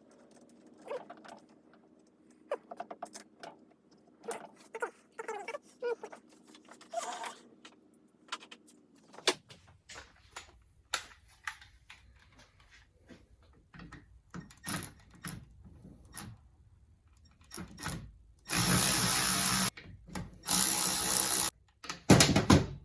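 Metal parts and tools clicking and knocking as the winch housing is handled, then a power drill-driver running bolts in: two steady bursts of about a second each and a shorter one near the end.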